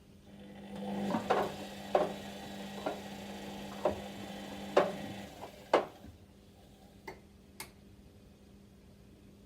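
Whirlpool washing machine's drum motor running briefly with a hum, while sharp clicks or knocks come about once a second as the drum turns. The hum stops after about five seconds, followed by two fainter clicks.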